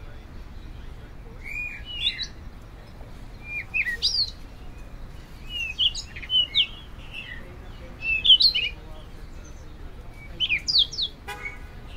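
Small birds chirping in short bursts of quick, high, sliding notes every couple of seconds, with a brief buzzy call near the end.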